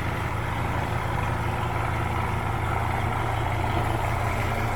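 Isuzu 4BE1 four-cylinder diesel engine of a mini dump truck running steadily at idle.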